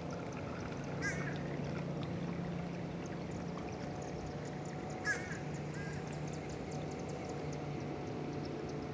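Two short bird calls, about a second in and about five seconds in, over a steady low hum.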